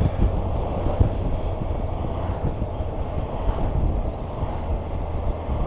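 Kawasaki Versys 1000 SE GT under way, heard from the rider's microphone: steady wind rush over the mic with the constant low drone of the engine and road underneath.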